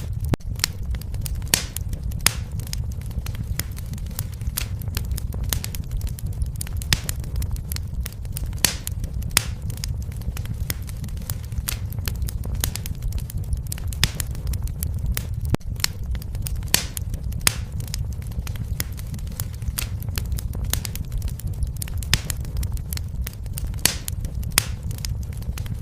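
Wood fire crackling, with frequent sharp, irregular pops over a steady low rumble of the burning flames.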